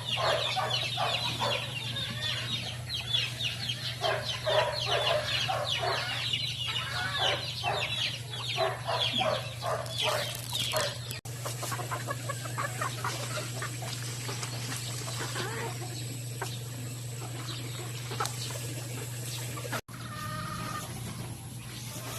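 A flock of chickens clucking and calling over one another, busiest in the first half and thinning out after about eleven seconds, over a steady low hum.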